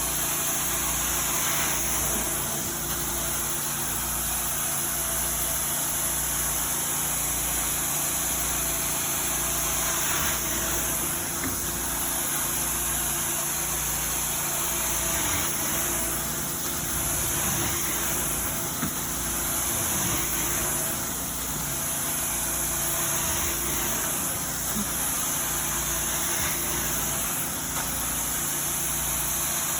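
Carpet-cleaning vacuum running steadily: a constant motor drone under a strong, high-pitched rush of air.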